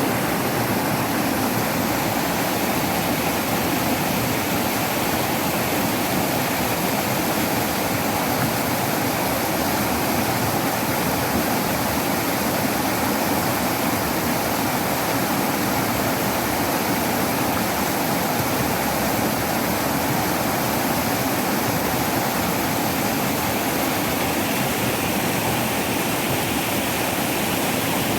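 Waterfall: water falling and rushing with a steady, unbroken roar.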